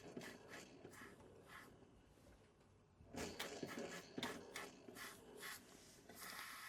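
Small Retrol model beam steam engine running slowly, with faint steam exhaust puffs about three to four a second that drop away briefly about two seconds in, then pick up again. The engine is running short of steam.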